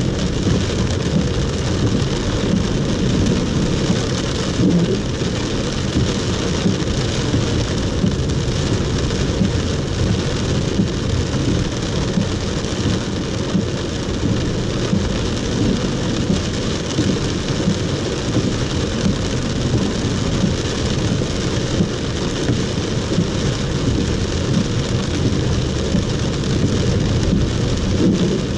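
Heavy rain drumming steadily on a car's roof and windscreen, heard from inside the cabin, a dense, unbroken patter with a deep rumble underneath.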